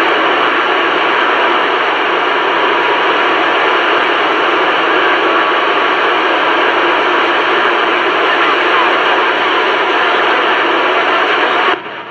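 CB radio receiving on channel 28: a loud, steady hiss of static from the speaker, which drops away abruptly near the end.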